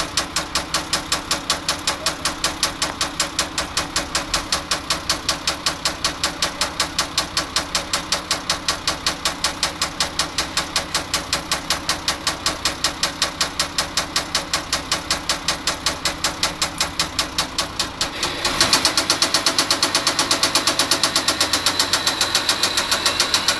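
Forklift truck engine running with a heavy, even knock, about four or five knocks a second, growing louder and brighter about three-quarters of the way in. The uploader takes the knock for the sign of an engine close to blowing up.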